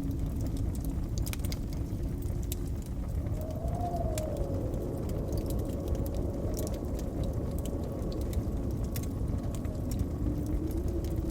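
Blizzard wind howling in a low steady rumble, with a faint whistle that slowly rises and falls, over the crackling and popping of a wood fire.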